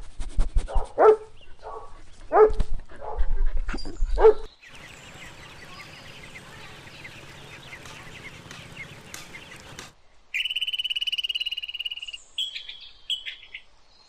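A Siberian husky gives about six short barks and yips over the first four seconds. Faint, high duckling peeps follow over a low hiss. About ten seconds in, a loud, high, fast-pulsed buzzing trill starts and breaks up briefly near the end.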